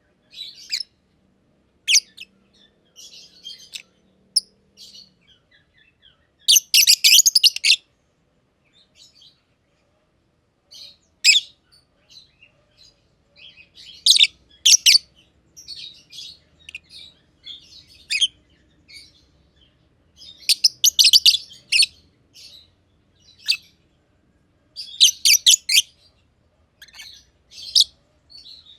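Masked lovebirds chirping: scattered short, high-pitched chirps broken by several louder bursts of rapid chattering chirps.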